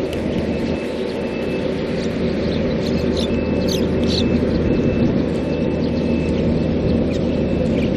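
Wild birds giving a few quick chirps about three to four seconds in, over a steady low rumble like wind on the microphone, with a faint high note repeating throughout.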